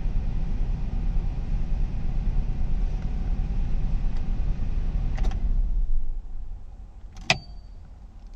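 1989 Jaguar XJ-S engine idling with a steady low rumble, then shut off about five seconds in, the sound dying away within a second. A single sharp metallic click with a brief ring follows shortly after.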